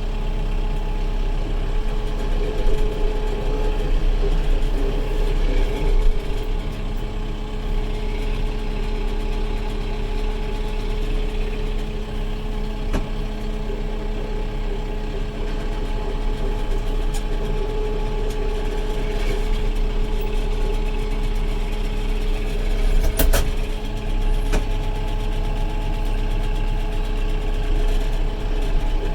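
Kubota 70-horsepower tractor's diesel engine running steadily. A single sharp knock sounds about 23 seconds in.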